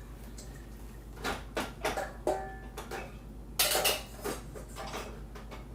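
Dishes and utensils clinking and knocking as they are fitted into a dishwasher rack: several separate knocks, one ringing briefly, and a louder rattle about halfway through.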